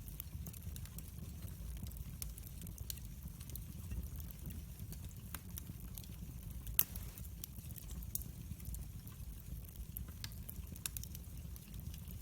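Wood fire burning in a fireplace: a steady low rumble of the flames with irregular crackles and snaps of burning wood, one louder pop a little past the middle.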